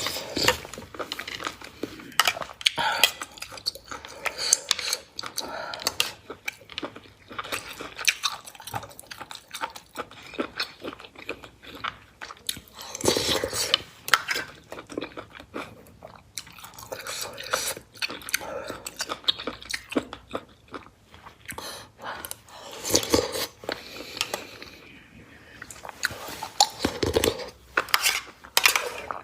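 Close-up eating sounds of a person chewing mouthfuls of Buddha Jumps Over the Wall, a braised seafood stew with abalone, sea cucumber and tendon. There are many small wet clicks, and louder bursts a few times.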